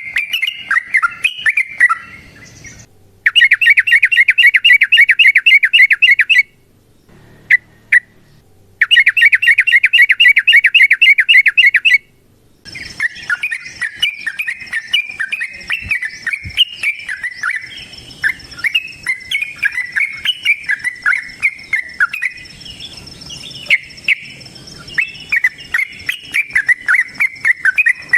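Yellow-vented bulbul (trucukan) singing. It gives two long bursts of very fast, chattering repeated notes that each stop abruptly, then runs on in looser, varied chirping phrases.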